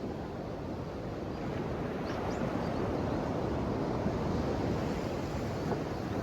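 Ocean waves washing ashore: a steady rushing surf that swells a little about two seconds in.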